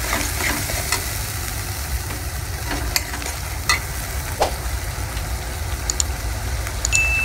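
Masala of chopped tomato and ground poppy-seed paste sizzling in hot oil in a kadai while a metal spatula stirs it, with scattered scrapes and taps of the spatula on the pan over a steady low hum. This is the koshano stage, frying the spice paste down.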